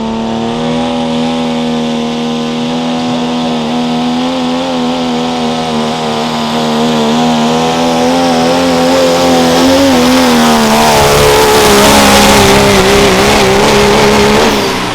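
A diesel pickup's engine under heavy load pulling a sled, its pitch wavering unsteadily. It changes note and grows louder around eleven seconds in, then drops off sharply near the end.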